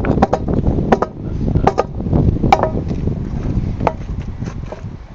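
Irregular sharp knocks and clinks of hand tools working a tire onto a wheel rim during manual, old-school tire mounting, one of them ringing briefly about two and a half seconds in.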